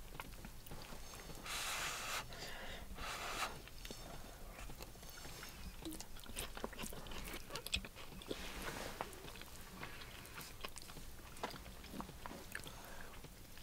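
Close, quiet eating sounds: a person chewing and smacking on corn porridge (kulesha) taken from a wooden spoon, with many small wet mouth clicks. Two short rushes of breathy hiss come about two and three seconds in.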